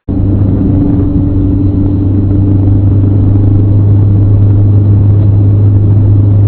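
Car engine and road noise, a loud steady low drone with no change in pitch and no impact.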